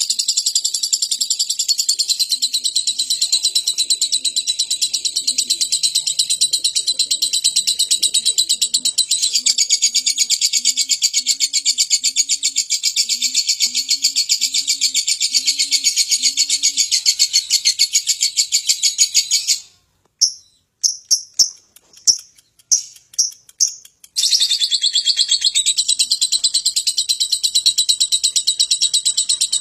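Lovebird in a long 'ngekek': a continuous, rapid, high-pitched chattering trill that breaks off about 20 seconds in for a few separate chirps, then starts again about four seconds later. A faint low cooing repeats about twice a second beneath it for a stretch in the middle.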